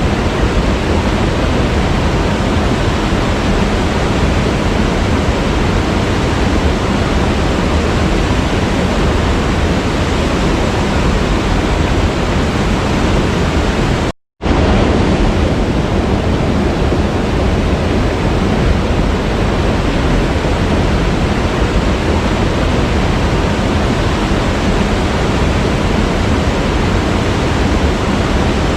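Waterfall rushing, a loud, steady, even roar of falling water. About halfway through it cuts out to silence for a split second and then carries on the same, like a splice in a looped recording.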